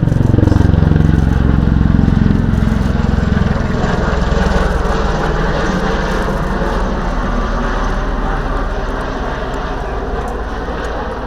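Bell Boeing V-22 Osprey tiltrotor flying past, the low drone of its two proprotors and turboshaft engines. Its pitch drops right at the start as it passes, then holds steady while the sound slowly fades away.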